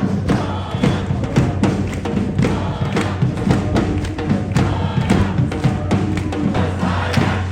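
Drums and percussion playing a fast, steady beat, several strikes a second without a break.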